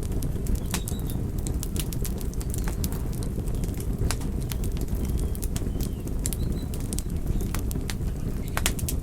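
Wood fire burning: a steady low rumble of flames with irregular sharp crackles and pops.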